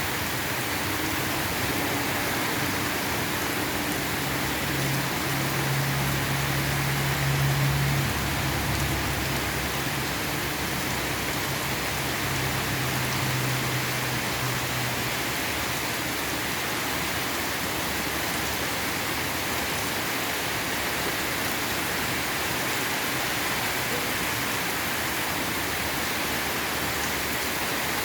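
Steady rain falling, an even hiss. Underneath, for the first half, a low hum rises to its loudest about a quarter of the way in and then fades out.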